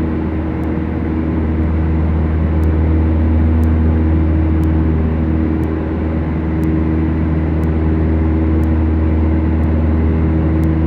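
Beechcraft Duchess's twin Lycoming four-cylinder engines and propellers droning steadily in the cockpit, with a low hum and several steady tones above it. A faint tick repeats about once a second.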